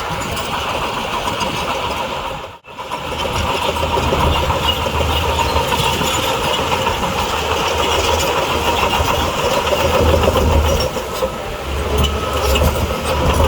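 Heavy diesel earthmoving machinery running, a deep engine rumble with a dense metallic clatter over it. There is a brief gap about two and a half seconds in, then it carries on steadily.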